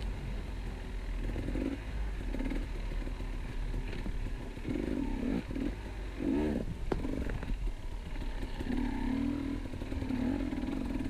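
KTM 250 EXC two-stroke enduro motorcycle being ridden off-road, its engine revving up and down with the throttle, with a sharp knock about seven seconds in.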